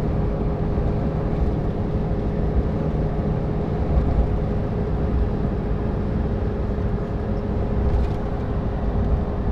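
Truck running: a steady low rumble with a steady hum above it.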